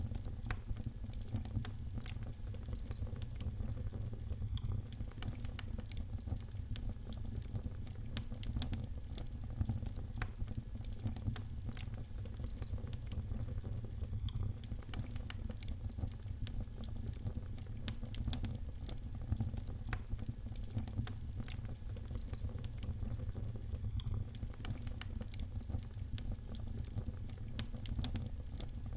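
Fireplace fire crackling with frequent small irregular pops over a steady low rumble of the flames.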